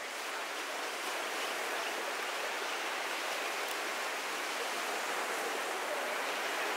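Ocean surf washing onto a sandy beach: a steady hiss of breaking waves that swells gently.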